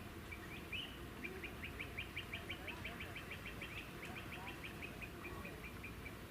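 A bird calling in a rapid run of short, high notes, about six a second, louder in the middle of the run and thinning out toward the end, over a low steady outdoor hiss.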